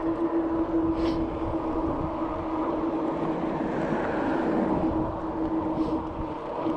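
Bicycle riding along a road, heard from a bike-mounted action camera: a steady rumble of tyre and wind noise under a constant hum, with two short hissing bursts, one about a second in and one near the end.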